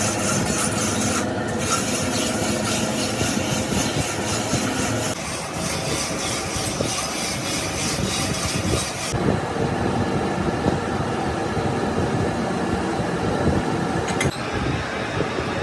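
Continuous rasping, rubbing metalworking noise from work on a cracked truck flywheel. It changes character abruptly about five seconds in and again about nine seconds in.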